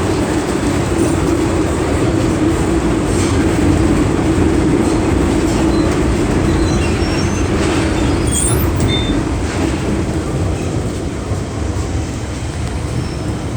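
MTR M-train metro running, a steady rumble and hum from the wheels and motors, with a brief high squeak about eight seconds in; it eases slightly near the end.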